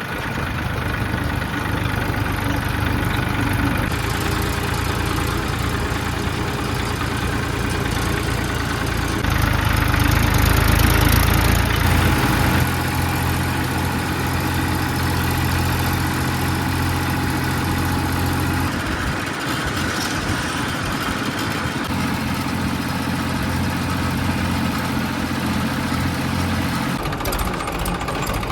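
Massey Ferguson 241 DI tractor's three-cylinder diesel engine running steadily. It grows louder and noisier for a few seconds around ten seconds in, then settles back to an even note.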